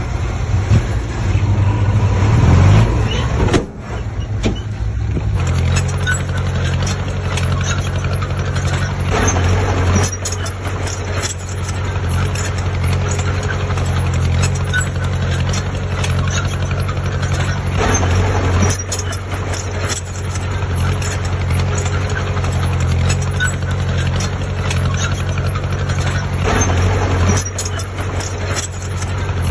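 Heavy diesel engine of earthmoving machinery running steadily under load, with scattered knocks and clatter. The engine note drops briefly about three and a half seconds in, then comes back stronger and holds steady.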